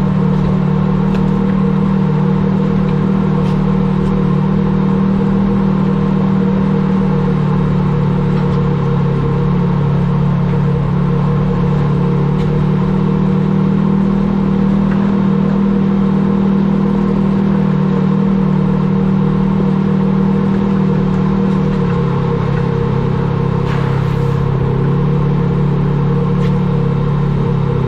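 A motor vehicle's engine running steadily with a low, even drone. The pitch drops slightly about 22 seconds in.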